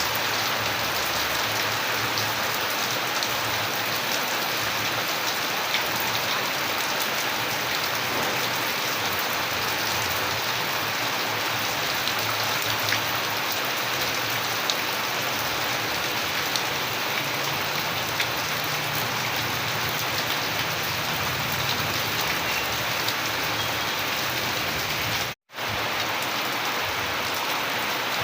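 Steady rain falling, an even hiss with scattered tiny drop ticks. Near the end the sound cuts out completely for a split second, then resumes as before.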